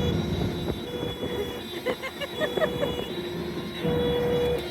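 German fire engine's two-tone siren sounding its alternating high and low notes, each held for under a second, over a low engine rumble. Around the middle, a quick run of short high squeaks cuts in.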